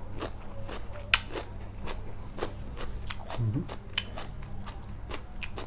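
Close-up chewing of a mouthful of lightly blanched shrimp laab: many small, irregular wet mouth clicks and smacks, over a low steady hum.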